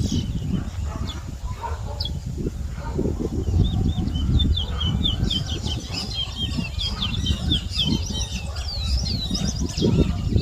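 A towa towa (chestnut-bellied seed finch) singing in a whistling competition: a few single chirps, then from about three and a half seconds in a fast run of high, repeated whistled notes that carries on to the end. A steady low rumble sits underneath.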